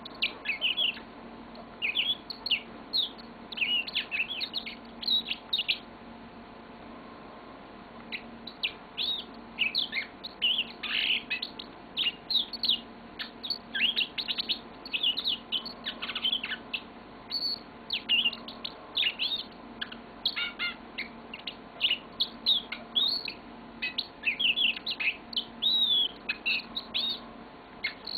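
Yellow-fronted canary singing a long song of quick high chirps and trills. It breaks off for about two seconds after some six seconds, then sings on almost without a pause.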